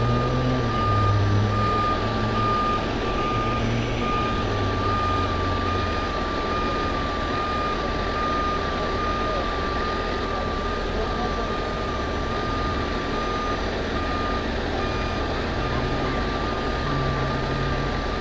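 Truck's backup alarm beeping steadily as it reverses, an even train of beeps on one pitch, over the truck's engine running.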